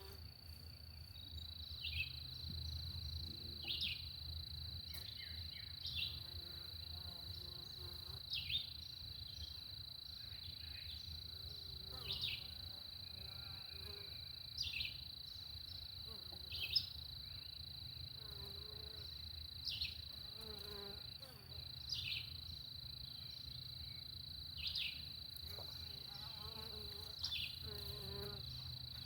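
Steady high-pitched insect trill with a bird repeating a short descending call about every two seconds, over a low steady hum.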